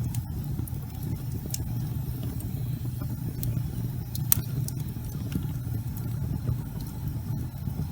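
Wood fire burning in a fireplace: a steady low rumble of flames with a few sharp crackles and pops, the loudest a little past the middle.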